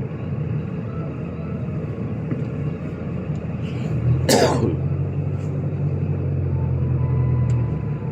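Diesel car engine running steadily, with a single loud cough from a person with bronchitis about four seconds in. The engine note drops near the end.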